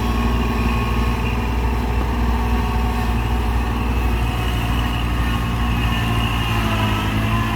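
Vehicle engine running steadily during a recovery pull, a continuous low drone whose pitch shifts slightly near the end.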